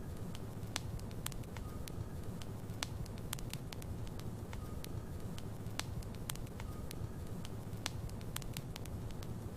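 Logs burning in a fireplace: a steady low rumble of flame with frequent sharp, irregular crackles and pops. A faint short whistle sounds about every two seconds.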